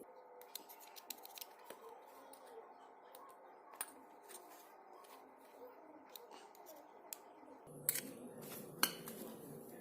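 Irregular sharp clicks and snips, like small scissors or cutters working, with two louder clicks near the end.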